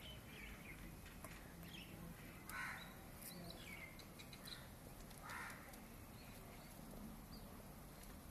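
Caged songbird calling faintly: scattered short chirps and quick gliding notes, with two louder, harsher calls about two and a half and five seconds in.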